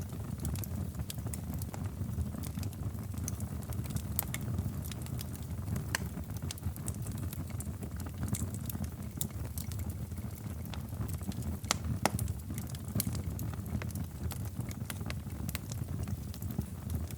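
Wood fire crackling in a fireplace: irregular sharp pops and snaps, a couple louder near 6 and 12 seconds in, over a steady low rumble.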